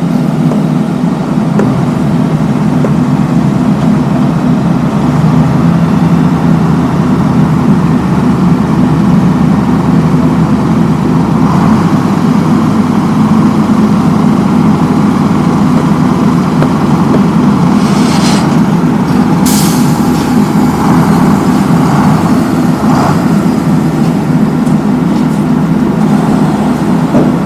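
Heavy road-paving machinery running steadily with a deep, even engine drone, and two short hisses about two thirds of the way through.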